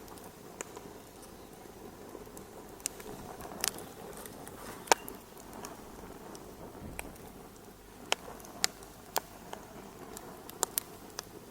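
Fire crackling in a fireplace: a steady soft hiss with irregular sharp pops, the loudest about five seconds in.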